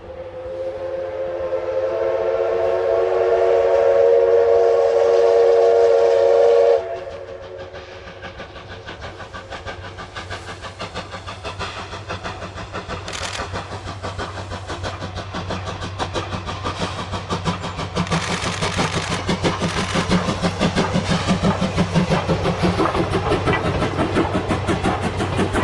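Steam locomotive whistle sounding a chord of several tones for about seven seconds, then stopping abruptly. The locomotive's exhaust chuffs then follow in a steady rhythm, growing louder as the train works away.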